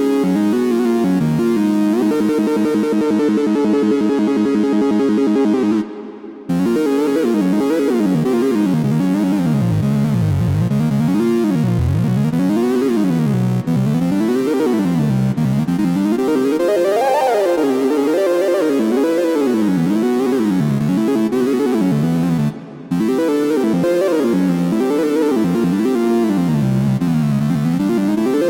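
2022 reissue Minimoog Model D synthesizer playing a monophonic improvisation. It opens with steady held notes, breaks off briefly about six seconds in, then comes back with the pitch sweeping up and down in repeated gliding zigzags, with another short break near the end.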